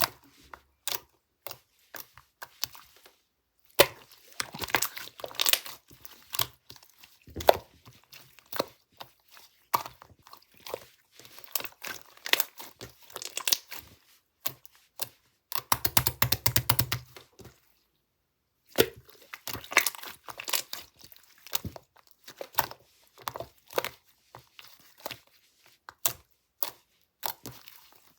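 Crinkly wrapping material being handled, torn and crumpled up close, in quick irregular crackles with a brief pause about two-thirds of the way through.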